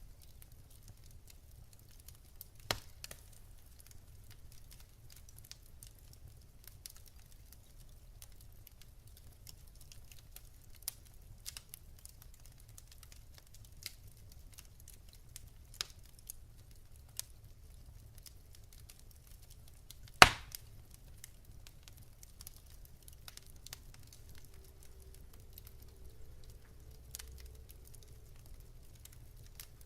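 Wood fire in a fireplace crackling: scattered sharp pops and snaps of burning logs, one much louder pop about twenty seconds in, over a low steady rumble.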